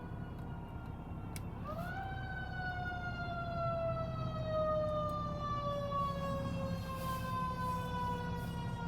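Fire engine siren winding quickly up in pitch about two seconds in, then slowly falling in pitch for several seconds, over the low rumble of the truck's engine.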